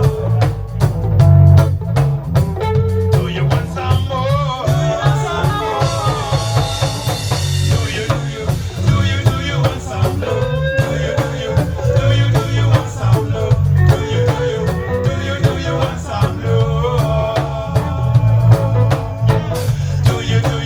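Lovers rock reggae band playing live, with heavy bass, drum kit and guitar on a steady beat and a wavering melody line over the top.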